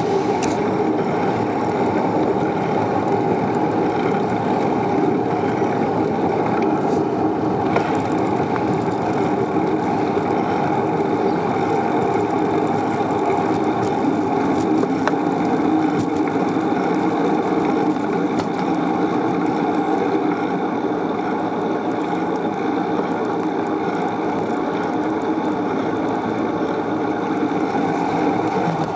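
Steady rushing noise of a bicycle in motion: wind on the microphone and tyres rolling on the road.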